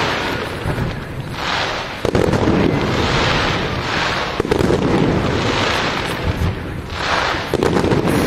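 Aerial fireworks going off one after another: sharp bangs every second or two over a steady crackling and hissing.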